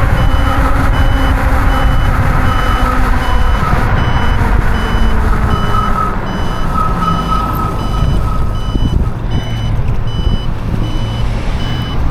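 E-bike turn-signal indicator beeper beeping steadily, a short high beep about every three-quarters of a second, over wind rumble on the microphone while riding; the beeping stops near the end.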